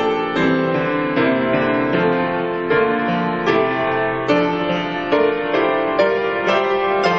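Piano playing slow, sustained chords, a new chord struck every second or less.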